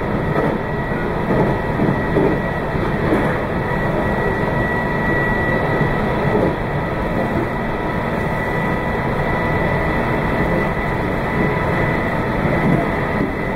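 Meitetsu 2200 series electric train running at steady speed, heard from inside the front car: an even rumble of wheels and running gear with a thin, steady whine.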